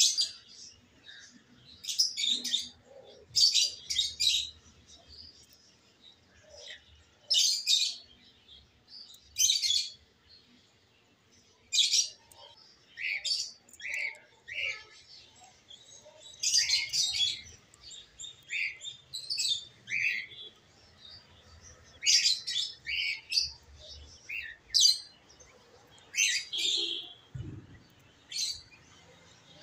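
Small birds chirping in short, high-pitched bursts every second or two, some calls as quick falling notes, with a brief low thump near the end.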